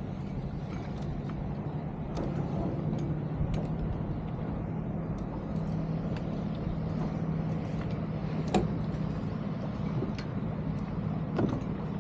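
A steady low motor hum under a noisy wash of water and wind, with a few sharp knocks, the clearest about eight and a half seconds in and again near the end.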